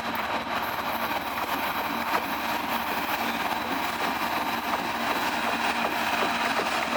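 Diesel locomotives running steadily, a continuous drone with a held hum and no break in level.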